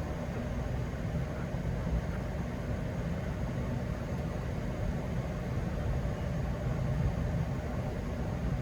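Boeing 737-800 flight deck on the ground after landing: a steady low rumble of the idling engines and cockpit air-conditioning, with no distinct events.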